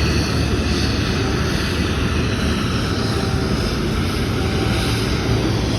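Jet airliner engines running, a steady, even noise from deep rumble to high hiss with no breaks.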